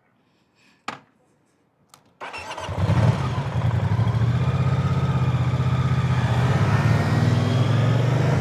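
A sharp click, then a Moto Guzzi V-twin motorcycle engine is started about two seconds in, catches at once and settles into a steady idle.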